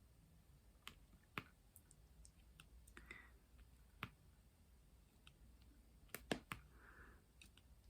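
Faint, irregular light clicks and taps of diamond painting work, a pen placing resin drills on the canvas, with a few clicks close together about six seconds in.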